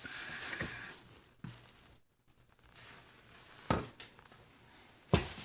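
A hot bowl and its cover being handled on a kitchen counter: a brief rustle, then three knocks, the sharpest near the middle and another near the end.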